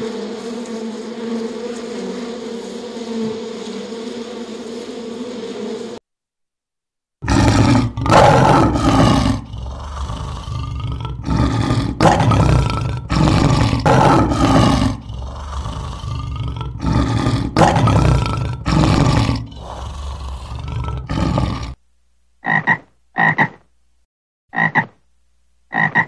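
Honeybees buzzing steadily on the comb for the first few seconds. After a brief silence, a male lion roars in a long series of loud, deep calls. Near the end, a frog gives four short croaks with gaps between them.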